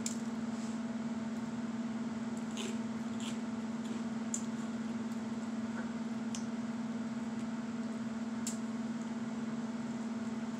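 Crunchy toast with butter and sugar being chewed close to the microphone: a few scattered sharp crunches and mouth clicks over a steady low hum.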